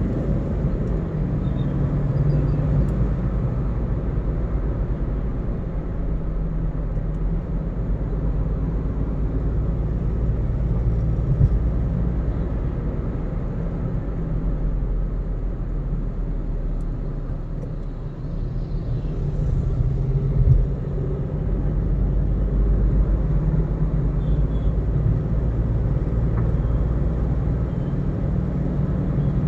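Car driving along a road: a steady low rumble of tyres and engine, with a brief thump about 11 seconds in and a louder one about 20 seconds in.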